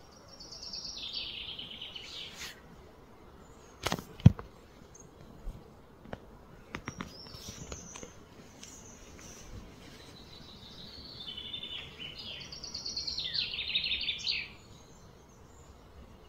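A bird singing outdoors: two phrases of rapid, high, stepped notes, one near the start and another, longer one about two-thirds of the way through. About four seconds in come two sharp knocks, the loudest sounds, followed by a few fainter clicks.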